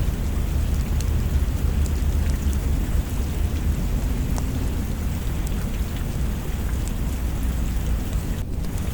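Steady rain with a continuous low rumble of thunder beneath it and scattered light ticks.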